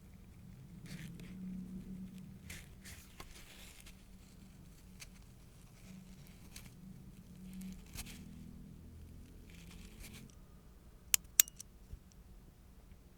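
Close-up handling sounds of manicure work: soft scraping and rustling strokes, then two sharp clicks about eleven seconds in.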